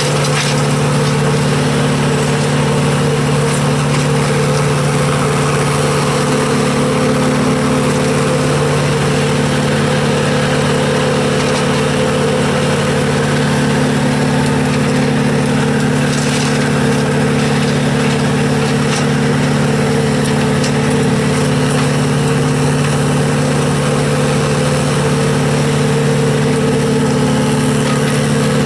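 An engine running steadily at a constant speed, with an even, unchanging hum throughout.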